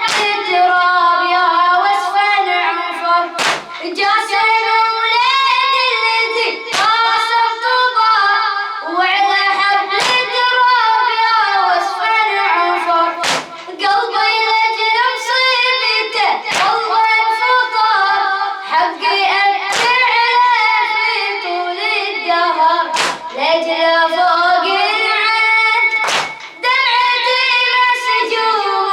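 A young boy's high voice chanting a Shia Muharram latmiya lament in long, ornamented phrases, with sharp rhythmic hand strikes, the chest-beating of the mourners, about every second and a half.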